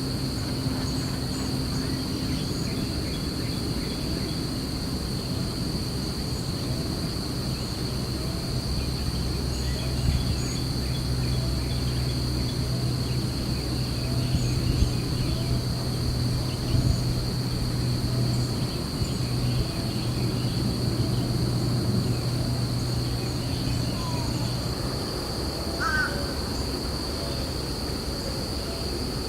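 Outdoor bird ambience: a bird gives a short call over and over, about twice a second, over a steady high insect drone. A low steady hum runs underneath and stops near the end.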